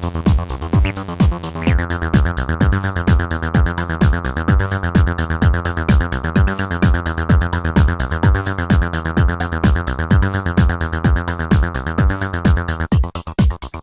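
Acid-style bassline from two Behringer TD-3 MO analog bass synthesizers (TB-303 clones) playing a fast sequenced pattern in unison, over a steady drum-machine beat from a Roland JD-Xi, with no effects. The resonant filter opens sharply about two seconds in, holds a bright squelchy peak, and closes abruptly near the end.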